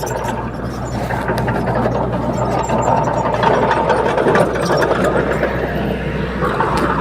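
Heavy diesel engine of earthmoving machinery running steadily, with scattered light clicks and rattles over it.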